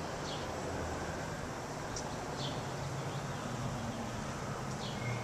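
Honeybee swarm buzzing in a dense, steady hum as the cluster guards its queen, with a few short high chirps over it.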